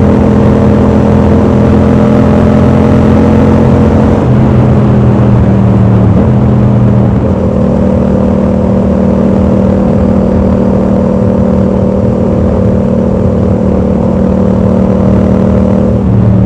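Yamaha MT-07's parallel-twin engine running at a steady, constant pitch, with a brief dip in pitch about six seconds in before settling back to a steady note.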